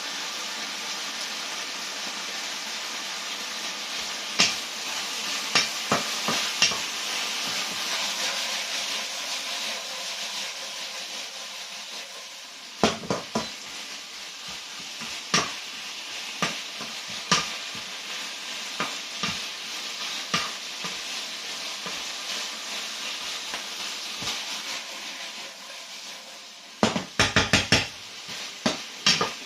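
Stir-fry sizzling in a wok with the heat just switched off, the sizzle slowly dying down, while a spatula scrapes and knocks against the pan now and then, with a quick run of knocks near the end.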